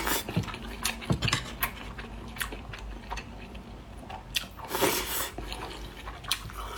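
Utensils clinking and scraping against a dish of stir-fried rice, in a series of separate sharp clicks.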